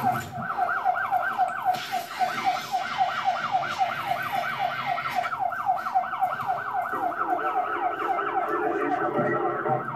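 Police car siren in a fast yelp, rising and falling about four to five times a second without a break.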